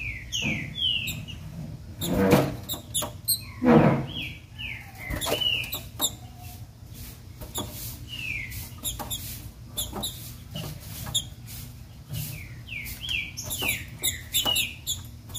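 Female green-winged saltator (trinca-ferro) calling: short, high notes that fall in pitch, given in clusters of two or three with pauses between. Scattered clicks and two louder rustles about two and four seconds in come between the clusters.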